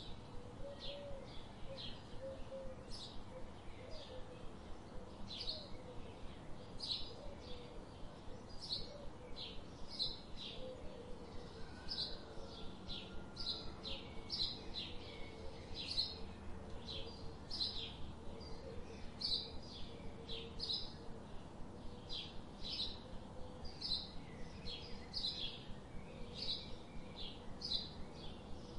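Bird chirping over and over: short, high chirps repeated at an even pace, roughly one to two a second.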